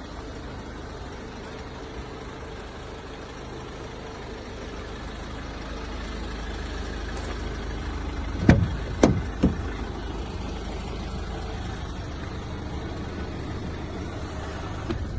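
Renault Master 2.3-litre four-cylinder diesel engine idling steadily. A little past halfway, three heavy thumps in quick succession.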